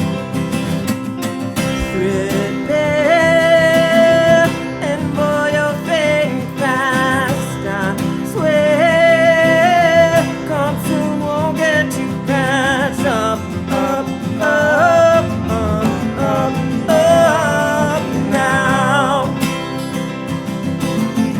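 Country-style band playing an instrumental break: strummed acoustic guitar and a full accompaniment under a wavering melodic lead line.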